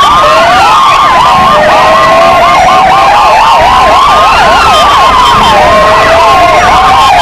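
Four electronic sirens sounding loudly together: two PFA police motorcycle sirens and two Kingvox ERP sirens. Fast up-and-down yelp tones overlap slower rising and falling wails.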